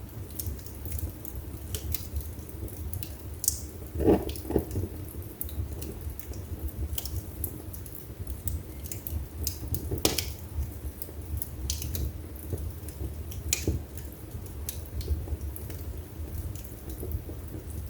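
Wood fire burning in a fireplace: a steady low rumble of flames under frequent small crackles, with louder pops about four seconds in and again about ten seconds in.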